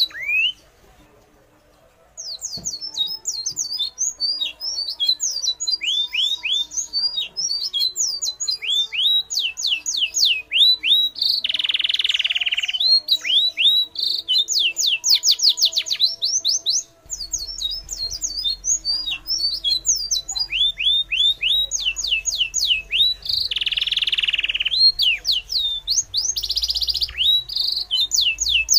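Songbirds chirping in quick succession, each note a sharp downward sweep, several a second, with a short pause near the start. A harsher, noisier call breaks in twice.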